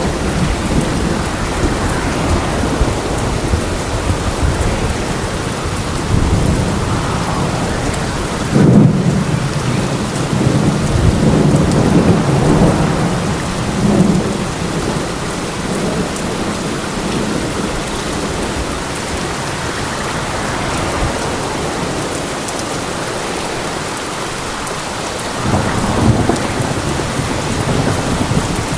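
Steady rain with thunder: a sudden loud thunderclap about a third of the way in rolls on as a low rumble for several seconds, and another rumble builds near the end.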